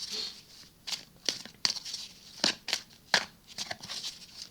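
Tarot cards being handled: a short rustle, then a series of irregular sharp card snaps and flicks.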